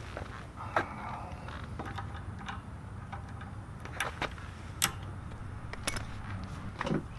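Hand tools clicking and clinking on metal in scattered single strikes, about five sharp clicks spread over several seconds, while a pressure washer's fuel supply line is worked off its carburetor. A faint low steady hum runs underneath.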